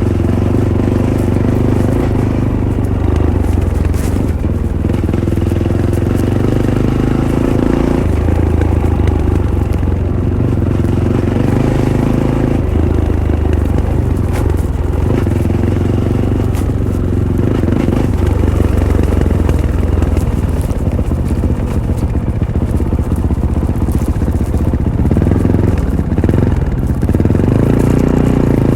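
Fantic Caballero 500's single-cylinder engine through its stock Arrow exhaust, running under way off-road, its pitch stepping up and down several times as the throttle and gears change.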